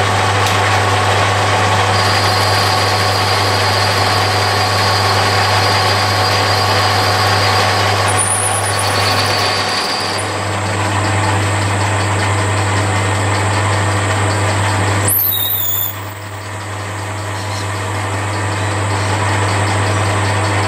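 Metal lathe running under power, a small boring bar cutting inside the hub of a cast iron flywheel: a steady motor hum under the hiss of the cut, with a faint high whine in the first half.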